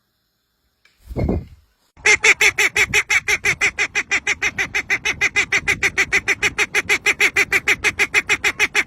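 A bird calling in a fast, even series of loud, honking notes, about seven a second, for some seven seconds, then stopping abruptly. A brief low sound comes about a second in, before the calls start.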